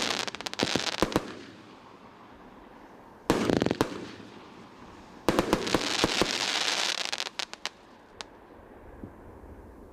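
Firework volleys going off: three clusters of sharp bangs with crackling, the last and longest lasting about two and a half seconds, then one more crack near the end before it dies away.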